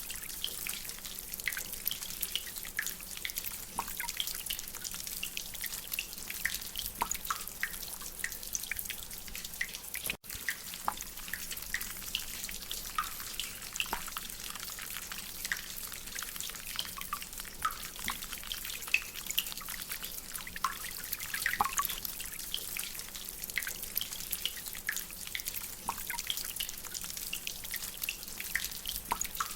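Rainwater dripping from a drainpipe: many irregular drips and taps over a steady hiss of rain. The sound cuts out for an instant about ten seconds in.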